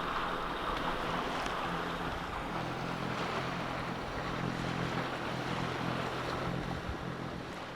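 Steady rush of wind and water on a sailboat, with a faint low hum underneath.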